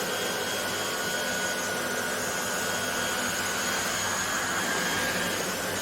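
Hoover HL500PT vacuum cleaner running steadily as it sucks up bread crumbs: a steady high motor whine over a rush of air.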